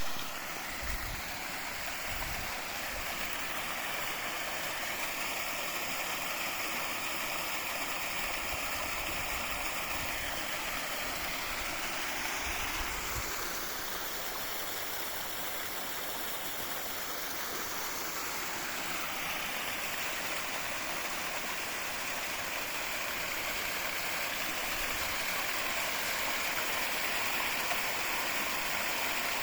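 Spring water running steadily, a continuous rushing splash. Its tone changes for several seconds midway, then returns.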